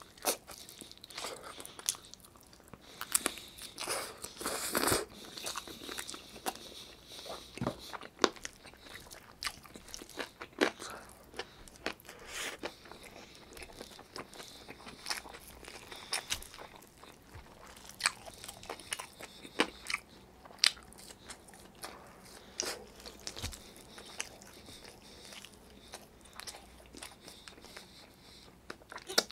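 Close-miked chewing and mouth sounds of a person eating chicken adobo and rice by hand, with many irregular sharp clicks, busiest about four to five seconds in.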